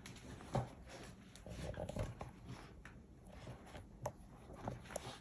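Staffordshire bull terrier puppy playing with a big ball: scattered light knocks and scuffles, several short sharp ones near the end.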